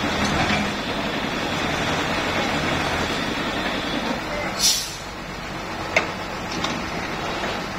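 Heavy diesel engine running steadily while a Hitachi UH07 excavator is unloaded from a truck. A short burst of hiss comes about halfway through, and a sharp click follows a second later.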